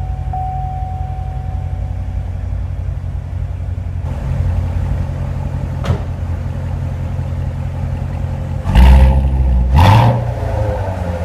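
Chevrolet Corvette Stingray C7's 6.2-litre V8 idling steadily just after start-up, then revved twice in quick succession near the end, the pitch jumping up and dropping back each time.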